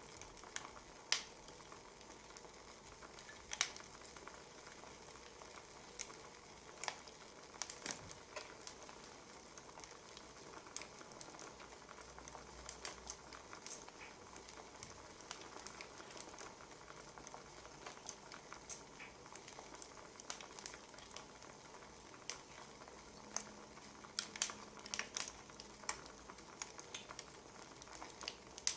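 Wood fire crackling: a soft steady hiss with irregular sharp pops and snaps, a few of them coming close together a little before the end.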